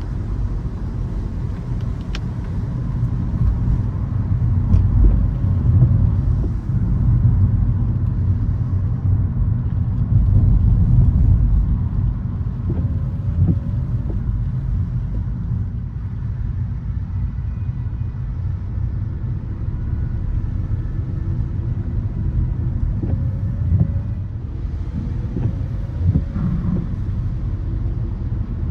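Car interior road noise while driving: a steady low rumble of engine and tyres that swells twice, in the first half.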